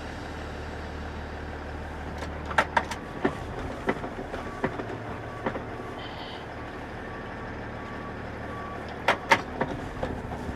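Box truck engine running with a low hum heard in the cab. The hum changes about three seconds in. There are several sharp clicks and knocks around then and again near the end, and a faint beep repeats about twice a second in the middle.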